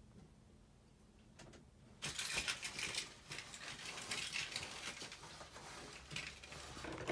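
Metal rattling and clicking of a door's locks and latch being worked open, starting about two seconds in and running on as a busy clatter.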